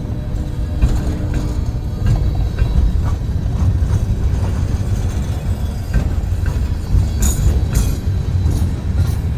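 A train on the move: a steady low rumble with scattered clanks and knocks, and a few sharp high clicks about seven seconds in.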